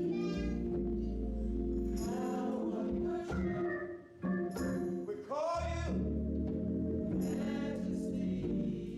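Church choir singing a gospel song over sustained instrumental chords, with a brief drop in level about four seconds in.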